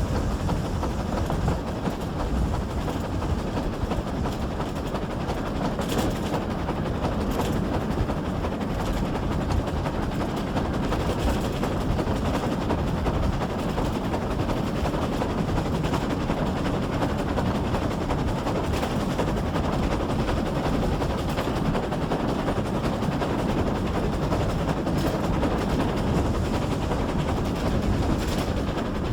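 Train hauled by GWR pannier tank no. 6412, heard from on board: a steady rumble of wheels on track with a few faint clicks.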